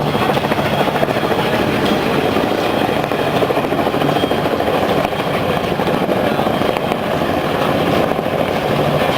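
Military helicopter rotors and engines running loudly and steadily, a continuous thudding wash of rotor noise.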